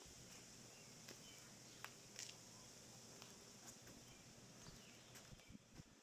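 Near silence: faint steady high-pitched hiss of background ambience with a few faint scattered clicks.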